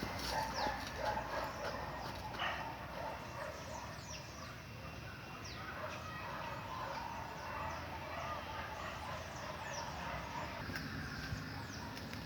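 Birds calling: many short, high chirps that fall in pitch, scattered throughout, over a steady background hiss.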